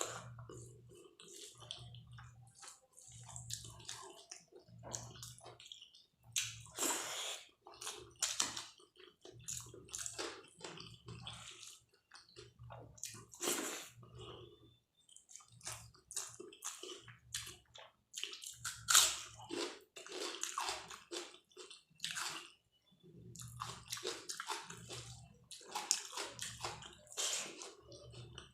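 Close-miked chewing of a mouthful of dal and rice: wet smacking and squishing at a steady rhythm of about one chew a second, with crisper crunches now and then.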